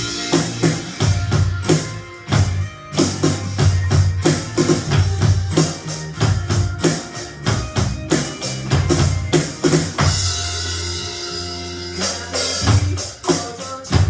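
Drum kit played along to a slow pop-rock backing track with no vocals, keeping a steady beat with bass drum. About ten seconds in, the beat gives way to a held, hissy ring for a couple of seconds, then the drumming picks up again.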